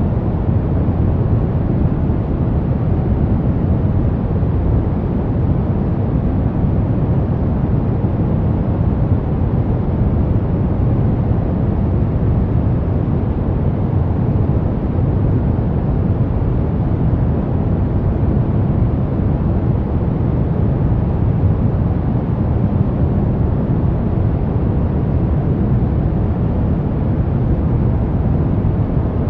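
Brown noise: a steady, unchanging deep rush, strongest in the bass and thinning out toward the highs.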